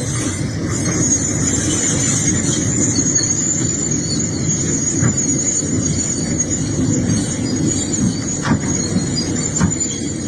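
Excavator running, a dense engine rumble with a steady high-pitched metallic squeal over it and a few brief knocks.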